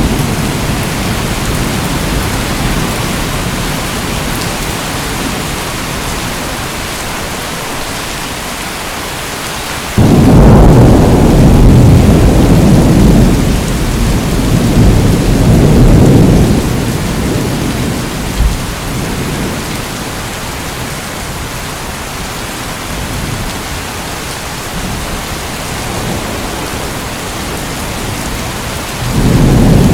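Steady heavy rain hissing in a rainforest, with thunder rolling over it: a loud low rumble starts suddenly about a third of the way in and lasts several seconds, and another begins near the end.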